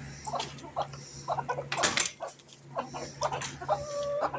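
Chickens clucking in short, scattered calls, with a sharp clatter about two seconds in and a short, steady, high whining squeal near the end.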